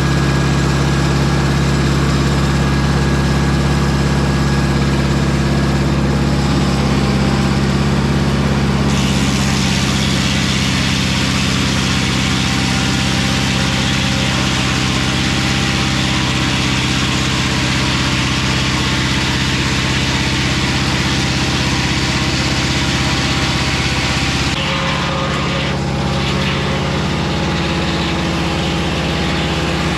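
Mobile Dimension circular-blade sawmill running steadily on its engine. A louder hiss joins about nine seconds in as the blade cuts through a spruce log, and it drops away about five seconds before the end.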